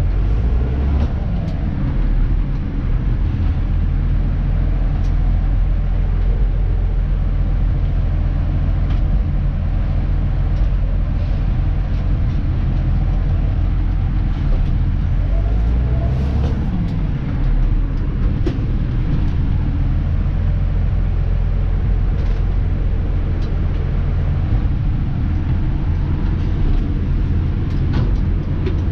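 Dennis Elite 2 refuse truck's diesel engine running steadily as the truck is driven, its engine note shifting about a second in and gliding up and down again around the middle.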